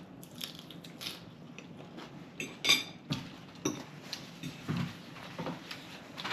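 Cutlery and dishes clinking and scraping at a meal: a scatter of short clicks and knocks, the sharpest about two and a half seconds in.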